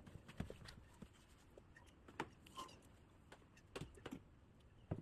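Near silence broken by faint, scattered clicks and knocks, a few seconds apart.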